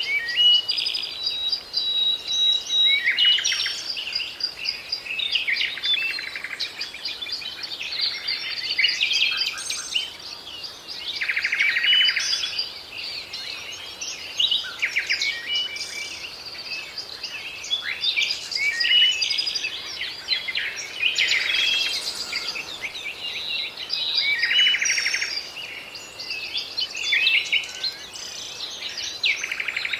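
Several birds singing at once: a dense mix of overlapping chirps, rapid trills and short whistles, with no one song standing out.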